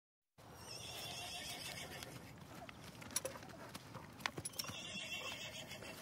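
Miniature ponies moving about on a concrete floor: a few sharp hoof knocks, mostly in the second half, over a steady outdoor background.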